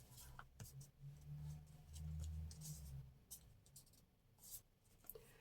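Faint rustling and light taps of paper being handled on a tabletop, with a soft low hum for about two seconds in the middle.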